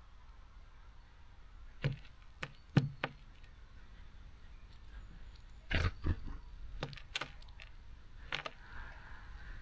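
Irregular sharp taps and knocks on a bird feeder, in two clusters about two and six seconds in, as small birds hop and peck at the seeds.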